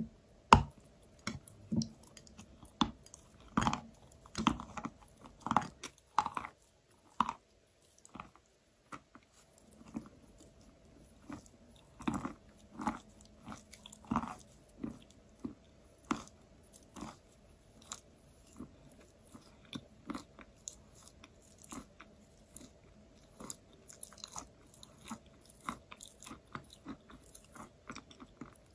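Biting and chewing of soft white eating chalk close to the microphone: irregular short crackling chews, several a second, loudest in the first seven seconds, with a brief pause about eight seconds in.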